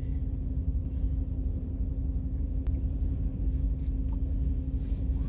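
Pickup truck driving slowly across the snow-covered lake ice, a steady low rumble with a constant hum underneath.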